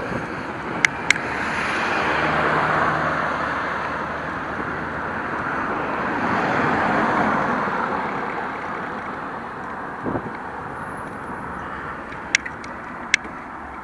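Road traffic going by: two motor vehicles swell up and fade away, the first about two seconds in and the second about seven seconds in, over steady wind noise. A few sharp clicks come near the start and again near the end.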